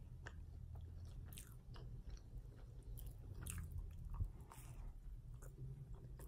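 Close-up chewing and biting into a toasted grilled cheese sandwich, with scattered soft crunches and mouth clicks.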